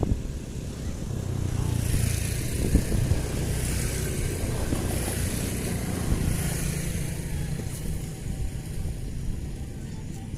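An engine running with a steady low note and a hiss above it. It grows louder over the first two seconds and fades slowly through the second half, as a vehicle passing by would.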